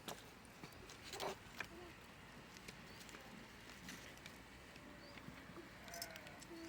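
A flock of sheep heard faintly: a few short calls, one about a second in and more near the end, over scattered small clicks and knocks like hooves moving about.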